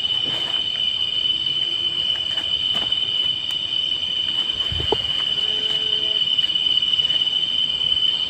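Chorus of night insects giving one steady, high-pitched continuous drone, with a soft low thump about five seconds in.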